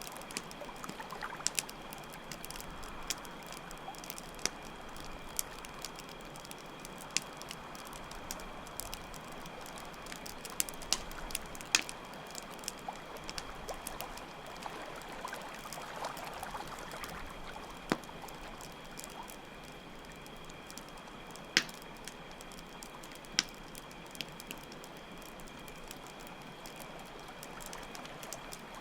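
Layered night ambience: a campfire crackling with sharp, irregular pops over steadily running stream water, with crickets keeping up a steady high chirping throughout.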